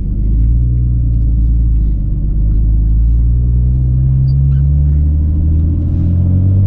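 Nissan Skyline R34's turbocharged straight-six heard from inside the cabin while driving, its steady drone rising and falling gently in pitch as the throttle changes.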